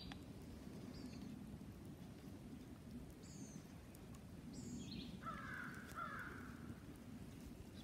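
Woodland birds calling: several short, high chirps that fall in pitch, and about five seconds in a louder, harsher call, over a faint steady outdoor background.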